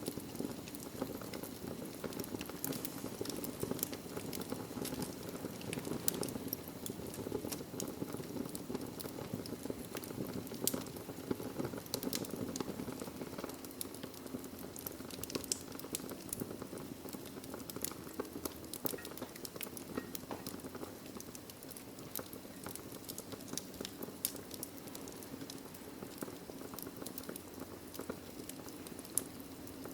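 Wood fire burning in a fireplace: a steady low rush of flames with frequent small, irregular crackles and pops from the logs.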